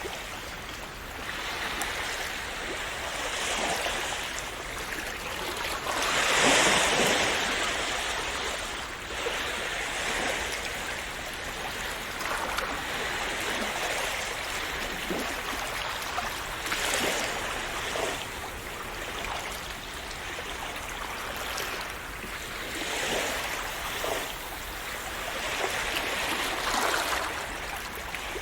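Sea waves breaking and washing on the shore, a steady wash with a swell every few seconds; one wave about six seconds in is the loudest.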